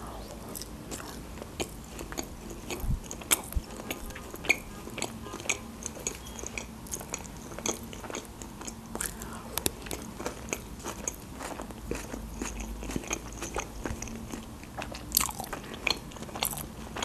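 A person chewing a mouthful of sushi roll close to the microphone: many small, irregular mouth clicks and smacks.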